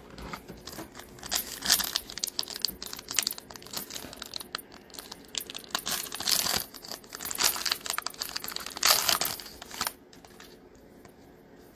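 Plastic foil wrapper of a trading-card pack being torn open and crinkled in the hands, irregular rustling and crackling that stops about ten seconds in.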